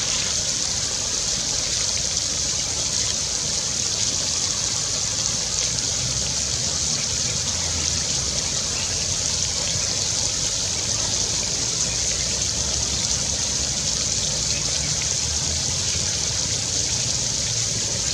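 Steady rushing of flowing stream water, a continuous hiss with a low rumble underneath and no change throughout.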